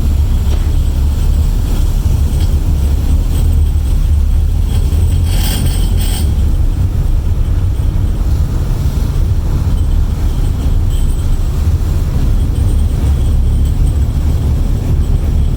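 Steady deep rumble throughout, with a brief hiss about five seconds in.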